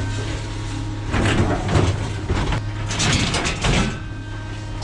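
Clattering and scraping in two bouts of about a second each, over a steady low hum.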